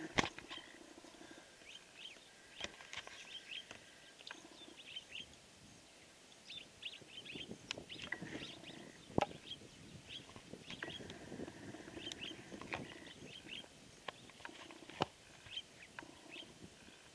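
Small birds chirping in short, scattered calls, with a few sharp clicks or snaps in between. The loudest click comes about nine seconds in, and another near the end.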